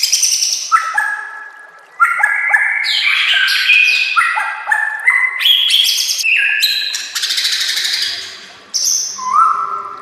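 White-rumped shama (murai batu) singing: fast runs of varied whistled phrases, many notes sliding up or down, mixed with harsh buzzy rattles. The song pauses briefly just before two seconds in and again about eight and a half seconds in.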